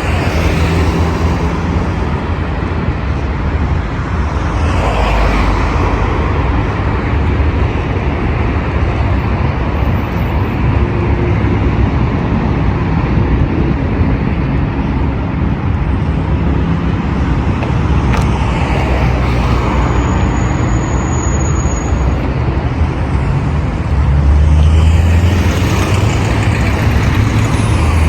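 Steady road traffic on a busy boulevard, with cars passing one after another. A heavier vehicle goes by with a louder deep rumble near the end.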